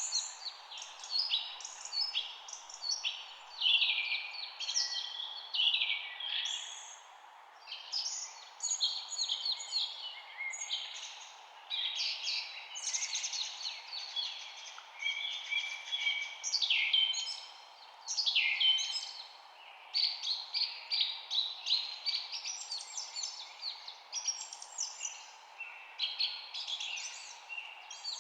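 Several small birds chirping and singing at once, short overlapping chirps and trills one after another without a break, over a steady background hiss.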